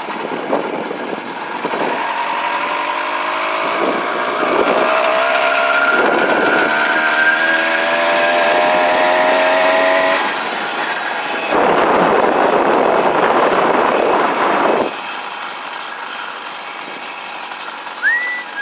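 Small gasoline engine of a motorized bicycle running under way, its pitch rising steadily for several seconds as it speeds up, then falling off about ten seconds in. A loud rush of noise follows for a few seconds before it quietens.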